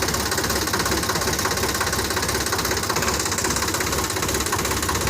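Tractor's diesel engine running steadily with a fast, even chugging.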